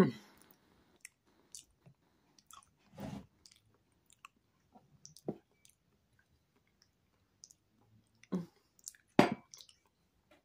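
Quiet close-up chewing of a mouthful of banana: soft wet mouth sounds and small clicks, with a few louder short mouth sounds scattered through, the last two near the end.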